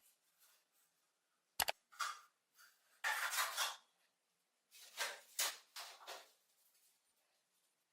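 Workshop handling noises: a sharp click about a second and a half in, then three short scraping strokes, the middle one the longest.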